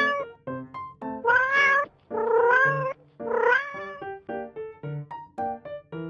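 Kitten meowing: one cry ending just after the start, then three more long cries about a second apart, each rising in pitch. Light background music of short plucked notes plays throughout and carries on alone after about four seconds.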